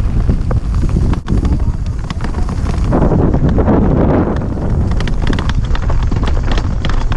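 Heavy wind buffeting on the microphone with a steady low rumble, as from a camera on a mini bike going flat out downhill.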